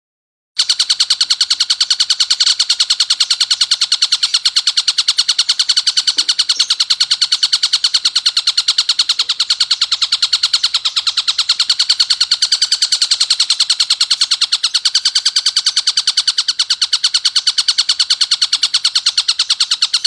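Tengkek buto calling in a loud, harsh, very rapid string of repeated notes, kept up without a break. This is the coarse, dense call used as training audio for songbirds to copy.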